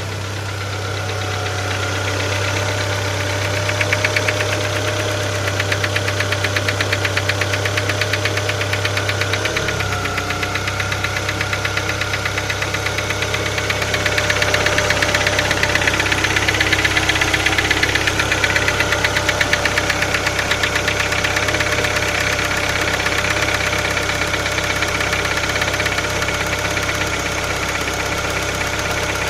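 Volkswagen-group BSE 1.6-litre four-cylinder petrol engine running with a steady rhythmic knock. The engine's note shifts slightly about ten seconds in.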